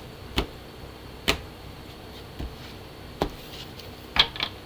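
Oracle cards being handled: about six separate sharp taps and clicks, two close together near the end.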